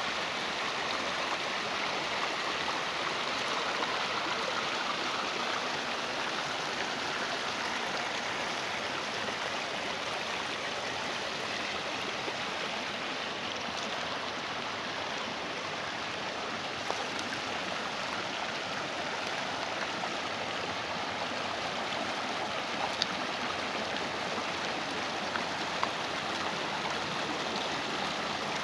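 Flowing stream water, a steady even rushing with no breaks. A few faint ticks are heard in the second half.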